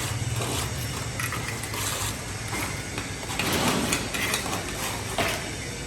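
Irregular clatter, scraping and knocking of hand tools and building materials at work. The sound grows louder and rougher about three and a half seconds in, with a sharp knock a little after five seconds.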